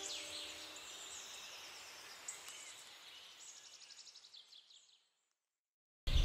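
Faint birdsong, quick chirps and trills, fading away into silence; music starts loudly just before the end.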